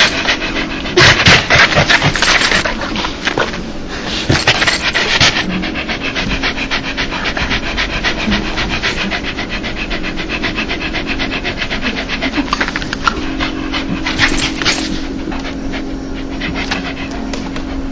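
Dog panting fast in a quick, even rhythm of short breaths, louder and harsher in the first few seconds. This is the open-mouthed pant that dogs give when happy and excited, sometimes called a dog laugh.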